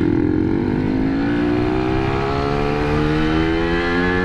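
Yamaha RX King two-stroke single-cylinder motorcycle engine pulling hard under acceleration, its pitch climbing steadily as the bike gathers speed in one gear.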